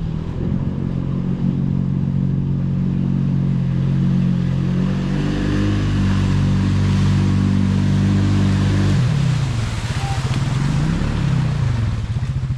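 ATV engine running under steady throttle. It climbs a little about halfway through, then drops off about nine seconds in, gives a short rev up and down, and settles to a low, pulsing idle near the end.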